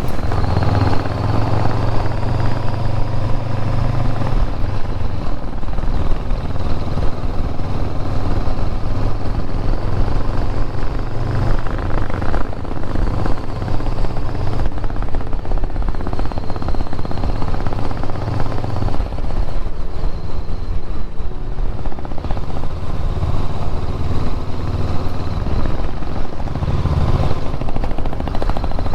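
Motorcycle engine running steadily while riding, its low note shifting a few times along the way.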